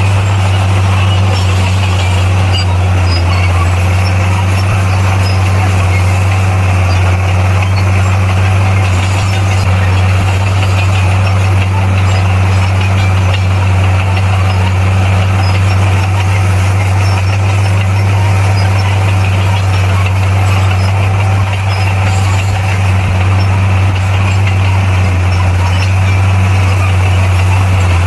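Bulldozer's diesel engine running at a steady, unchanging pitch, a deep constant drone.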